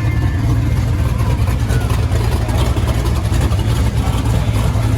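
A car engine running steadily close by, its deep low note the loudest sound.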